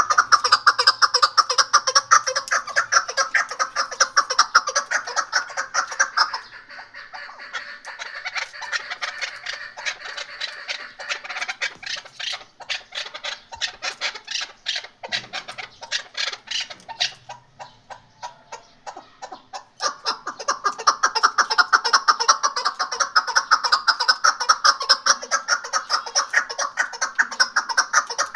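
Chukar partridge calling: a fast run of repeated clucking notes, loud for the first six seconds and again from about twenty seconds in, with softer, sparser notes in between.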